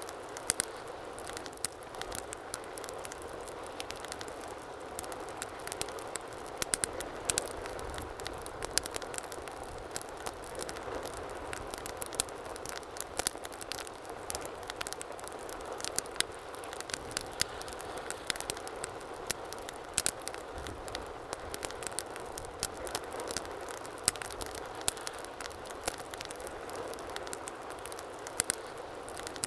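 Wood fire burning in a fireplace: a steady low hiss with frequent sharp crackles and pops, several a second.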